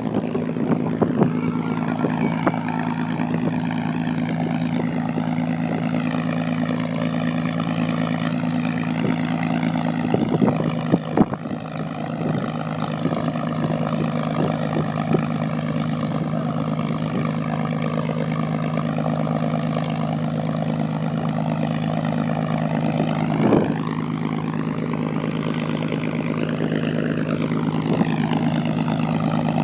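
Propeller airplane engine running on the ground, a loud steady drone with a slow wavering in its upper tones, and a few brief knocks partway through.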